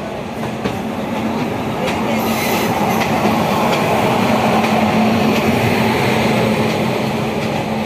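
WAG-9HC electric freight locomotive and its freight wagons rolling past close by: a loud, steady rush of wheels on rail over a steady low hum, growing louder over the first few seconds and then holding.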